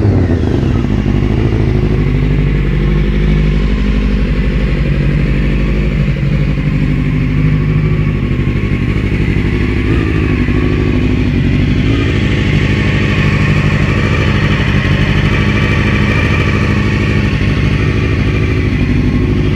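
Honda CBR600F3 motorcycle's inline-four engine idling steadily at an even pitch, with no revving.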